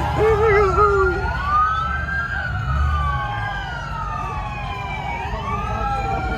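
Police sirens wailing, their pitch slowly rising and falling over a couple of seconds, with more than one siren overlapping.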